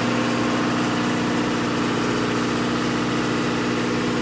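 A ship's generator running steadily in the engine room: a loud, unchanging machinery drone with several steady tones.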